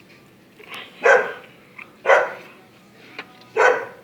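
A dog barking in the background, three or four short barks about a second apart.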